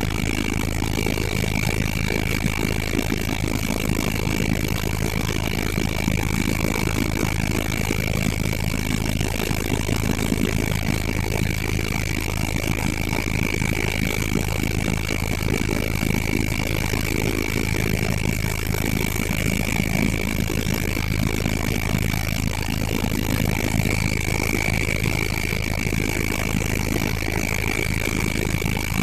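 Helicopter engine and rotor noise running steadily, a constant low drone with a steady high-pitched whine over it.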